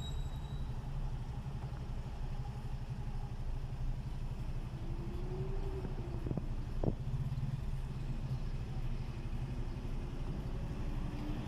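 Engines idling in stopped city traffic, heard from inside a car's cabin: a steady low rumble. There are two short clicks a little past halfway.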